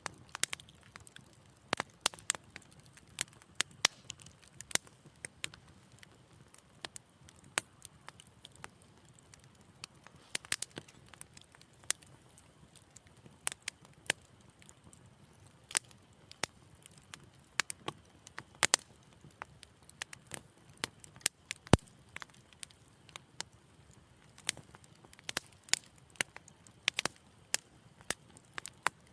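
Wood fire crackling in a fireplace: irregular sharp pops and snaps, sometimes several close together, over a faint low rumble of the burning fire.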